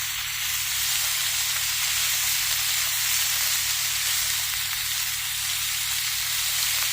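Pork with peppers, onions and green onions sizzling steadily in an electric skillet.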